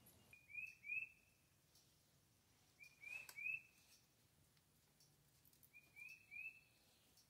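A songbird singing faintly, three short phrases of two or three quick rising chirps, about three seconds apart.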